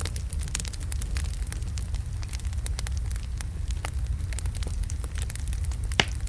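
Wood logs burning in a fireplace, crackling with many small sharp pops over a steady low rumble of the flames. One louder snap comes near the end.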